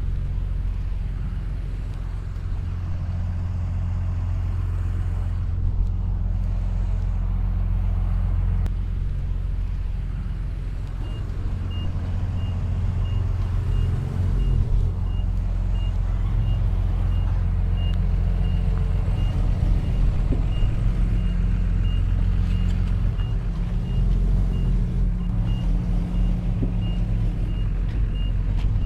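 Heavy earthmoving machinery's diesel engine running steadily under load, with a backup alarm starting to beep about a third of the way in, roughly two beeps a second: a machine reversing.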